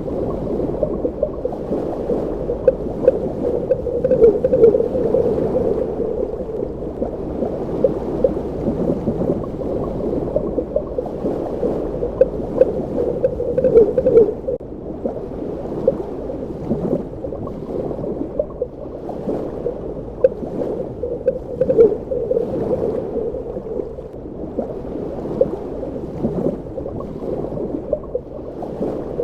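Underwater ambience: a steady, muffled water rush sitting low in pitch, dotted with many small pops and crackles and a few brief swells.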